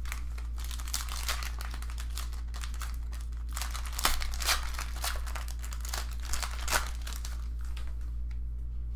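Plastic trading-card pack wrappers crinkling and tearing as packs are opened and handled, densest in the middle and thinning out near the end, over a steady low electrical hum.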